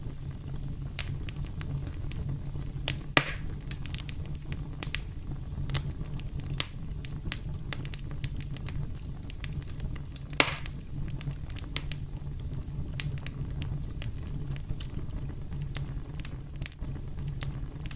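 Campfire crackling: a steady low rumble of burning wood with frequent small snaps, and two louder pops, about three seconds in and again about ten seconds in.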